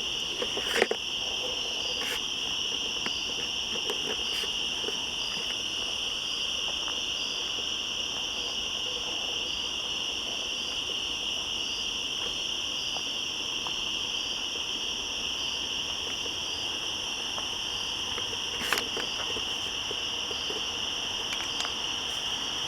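Cicadas calling in the woods: a steady, high-pitched drone with a faster pulsing call layered over it. Two sharp clicks break through, one about a second in and one near the end.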